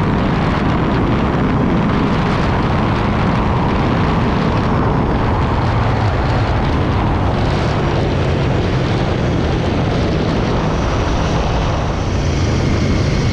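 Motorcycle riding at speed: heavy wind rush on the microphone over the steady running of the Aprilia Tuono V4 1100's V4 engine.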